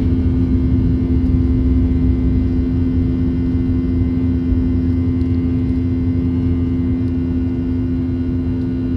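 Boeing 737-800's CFM56 jet engines running, heard inside the cabin as a steady low rumble with a constant droning tone.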